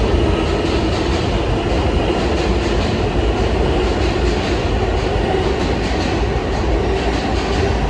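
R160 subway car running between stations: a steady rumble of wheels on rail with a faint, steady hum.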